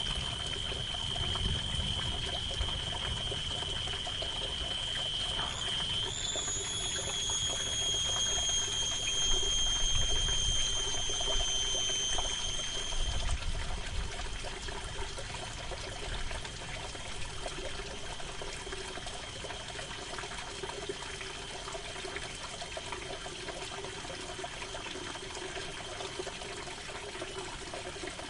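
Steady rain falling on a canvas tent, with low distant thunder rolling through the first half. A thin, steady high whistle-like tone sounds over the rain until about 13 seconds in, when it stops.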